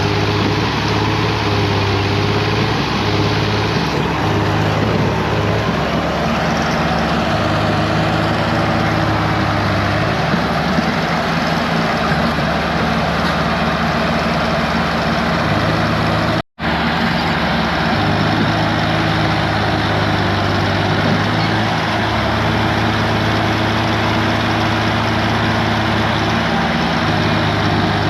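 Tractor diesel engines running hard and steadily, with a dense mechanical clatter and a low hum, as the tractors strain against each other in a tug-of-war. The sound cuts out for an instant about halfway through, then resumes the same.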